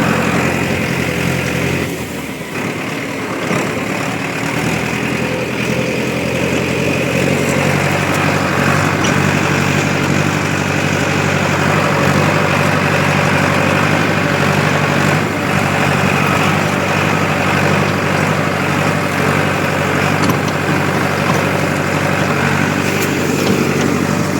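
A vehicle engine running steadily, dipping briefly about two seconds in.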